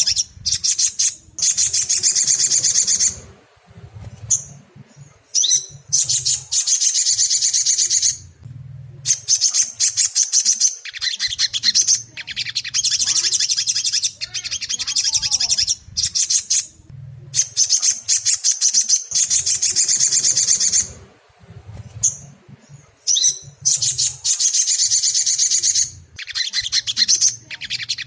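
Sogon (sogok ontong) song: rapid, high, chattering trills in bursts of a few seconds with short pauses between them. It is played as a lure recording to stir an untrained young bird into singing.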